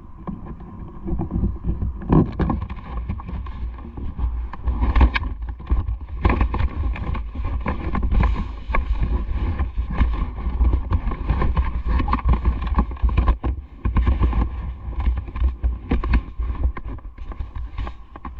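Wind buffeting the microphone of a moving action camera, a heavy low rumble with rapid knocks and rattles from the ride.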